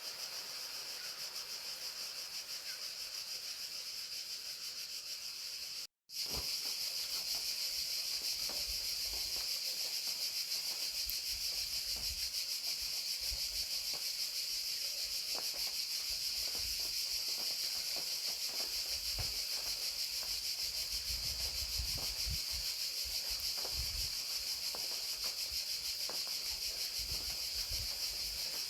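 Field crickets trilling in a steady, continuous high chorus while rain falls, with scattered drops ticking and pattering. The sound cuts out for an instant about six seconds in and comes back slightly louder.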